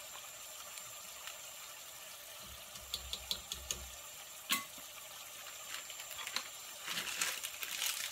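Onion-and-spice masala frying in oil in a pot: a steady faint sizzle with scattered pops, one sharper click midway and denser crackling near the end.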